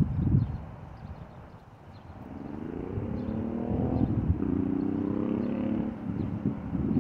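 Car engine rising in pitch as it accelerates for about two seconds, then dropping back and holding a steady note. Low rumbling thumps come at the start and again near the end.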